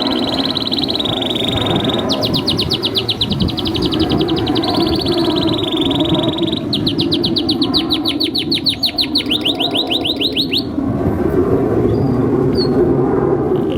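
Male domestic canary singing a long continuous song: high held whistled notes alternating with two long, rapid trills of repeated notes. A steady low background noise runs underneath.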